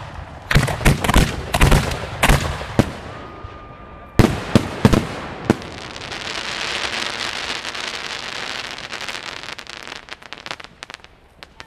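Aerial fireworks shells bursting overhead: a rapid series of loud bangs, a second cluster about four seconds in, then a long dense crackle from the bursting stars that thins into scattered small pops near the end.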